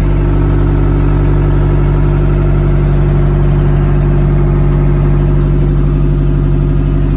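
Boat engine running steadily at a constant speed, with an even low hum.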